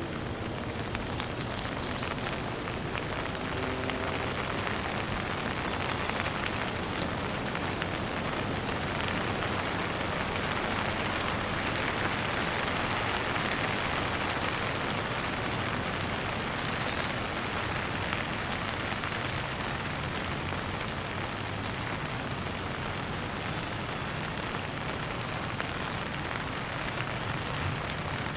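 Steady rain falling, an even hiss of drops on surfaces, with a short high chirp about halfway through.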